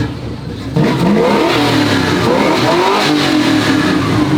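Two car engines revving hard against each other, their pitch sweeping up and down in overlapping rises and falls. The revving comes in loud suddenly about a second in.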